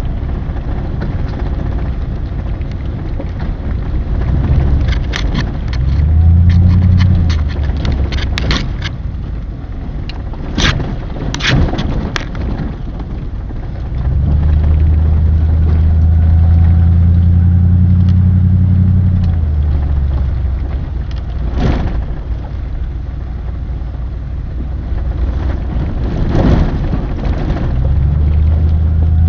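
Vehicle engine running under way, its pitch rising as it picks up speed a few times, over a steady road rumble. Scattered knocks and rattles are heard, mostly in the first half.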